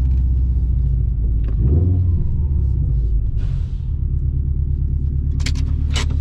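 2021 Subaru WRX STI's turbocharged flat-four with an RK Titanium catback exhaust (stock downpipe) rumbling at low speed and idle, its deep note shifting about two seconds in. A few sharp clicks near the end.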